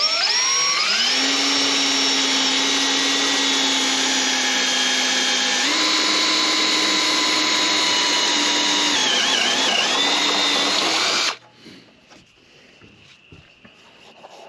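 Electric drill boring out a spot weld in the truck's sheet-metal cab corner. The motor spins up with a rising whine at the start, then runs steady. Its pitch steps up partway through and wavers briefly as the bit bites into the metal, and it stops suddenly near the end.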